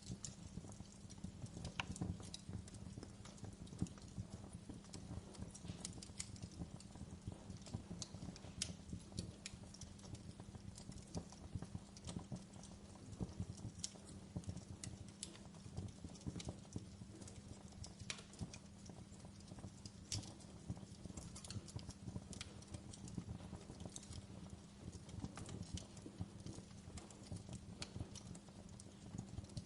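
Wood fire in a fireplace crackling: irregular small pops and snaps over a low steady rumble.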